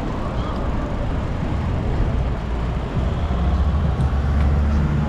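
Steady low rumble of road and wind noise from traffic, with a vehicle engine's low hum that comes in about three seconds in and grows louder.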